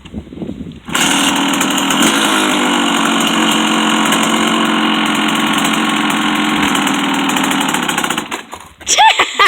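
Dirt bike engine running fast and steady. It cuts in suddenly about a second in and stops abruptly shortly before the end.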